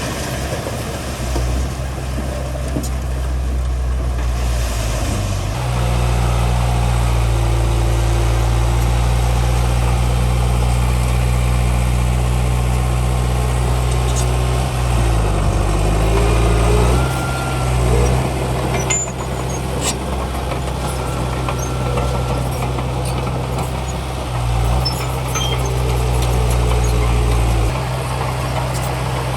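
Heavy diesel engine of earthmoving machinery running steadily. Its note steps up about five seconds in, dips and climbs again around the middle, and shifts once more near the end.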